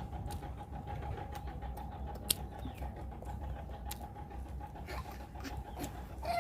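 Close-up mouth sounds of someone chewing food, with scattered sharp clicks and smacks over a faint steady hum.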